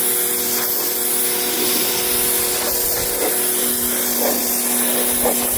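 Pressure washer spraying a jet of plain water onto car upholstery: a steady hiss of spray over the hum of the washer's motor and pump, whose note drops a little over halfway through.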